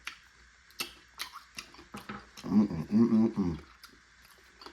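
Close-up eating sounds of a baked chicken wing: sharp wet clicks and smacks of chewing and lips, with a short murmur of voice, about two seconds long, in the middle.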